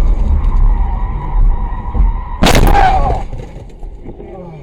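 Heavy low rumble with a faint steady tone, then one loud, sudden bang about two and a half seconds in that dies away within a second.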